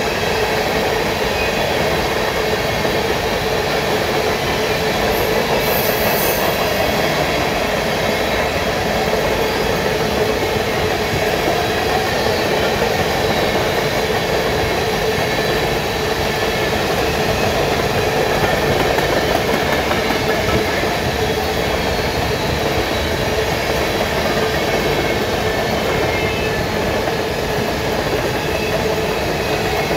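Coal cars of a long freight train rolling past at steady speed: a continuous rumble and rattle of steel wheels on the rails, with a steady whine running through it.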